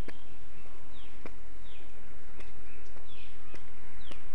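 Birds calling outdoors: several short chirps that slide downward, over a steady low rumble, with sharp clicks about once a second.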